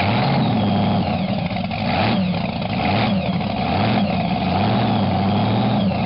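Supercharged Hemi V8 running on its first start, its pitch rising and falling with several blips of the throttle.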